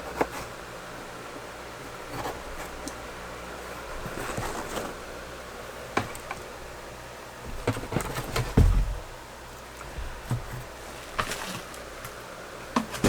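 Scattered light knocks and clatter of things being handled, with one heavier thump about eight and a half seconds in, over a steady low hum.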